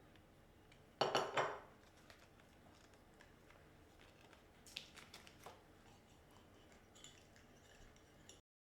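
Kitchenware clattering loudly once about a second in, followed by a few lighter clinks and taps; the sound cuts out abruptly near the end.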